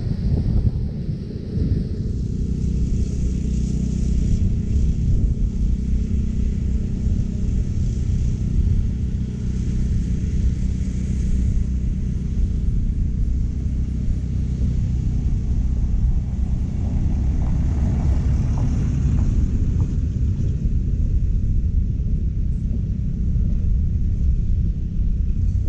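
California Trimmer powered reel mower running steadily while mowing short Bermuda grass, an engine hum with a fainter hiss above it.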